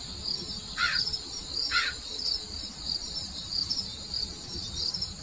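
Crickets chirping steadily in a fast, high, pulsing trill. Two short, lower chirps come through about one and two seconds in.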